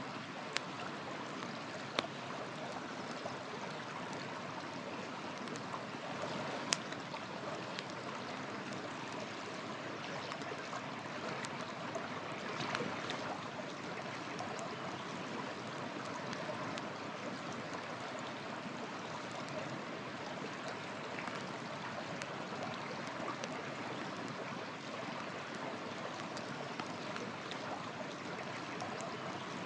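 Steady rushing of a river, with a few sharp pops and crackles from a wood campfire burning beside it; the loudest pop comes about seven seconds in.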